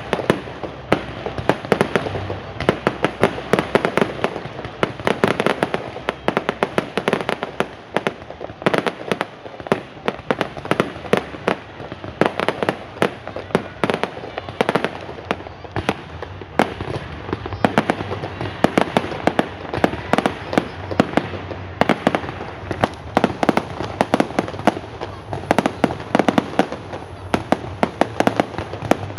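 Fireworks going off in a rapid, unbroken barrage, with many sharp bangs and crackles every second.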